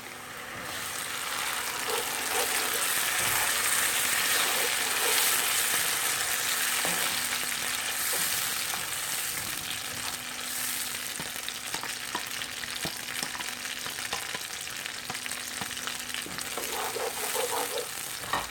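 Tomato paste sizzling in hot oil with fried onions in a wok while it is stirred. The sizzle swells about a second in as the paste goes into the oil, is loudest over the next few seconds, then settles to a steady fry with small stirring clicks.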